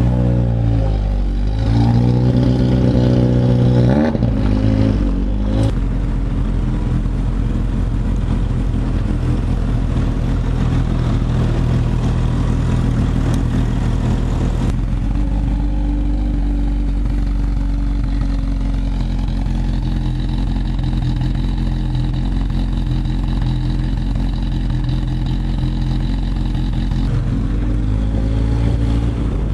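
Lotus Exige's four-cylinder engine revved in several quick blips over the first few seconds, then running at a steady idle, with one more rev rising near the end.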